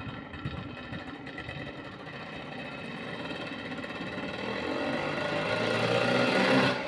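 1981 Yamaha YZ 250's single-cylinder two-stroke engine running, growing steadily louder over several seconds, then dropping back sharply near the end. It has a new piston and rings.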